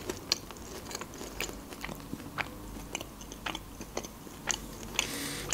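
Close-miked chewing of a folded pastry: a stream of small wet mouth clicks and soft crunches, with a short breathy hiss near the end.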